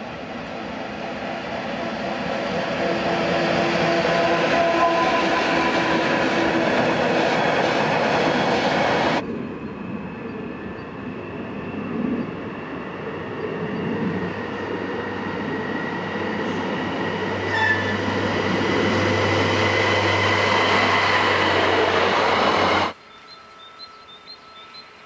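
Rhaetian Railway train running past on the rails: a loud rumble with a few steady tones over it. The sound cuts abruptly about nine seconds in to another stretch of train noise, which stops suddenly near the end and leaves only faint background.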